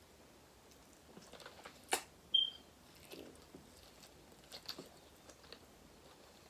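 Close-miked eating sounds: sparse quiet chewing and mouth noises from someone eating boiled seafood, with a few sharp clicks. The loudest sound is one brief high squeak about two and a half seconds in.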